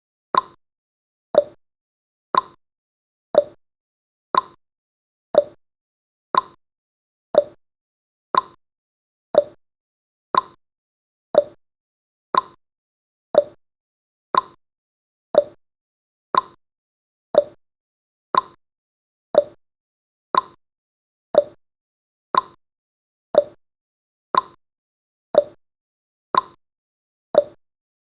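Countdown timer's tick sound effect: a short, sharp click once every second, perfectly regular.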